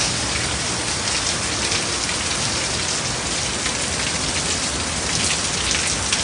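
Heavy rain pouring steadily in a dense, even hiss, with scattered close drips and splashes.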